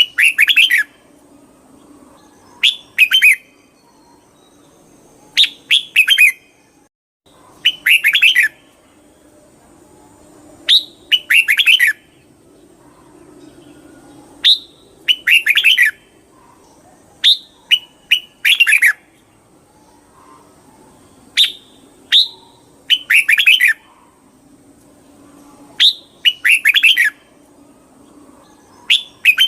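Red-whiskered bulbul singing: short, bright phrases of a few quick notes, repeated about every three seconds.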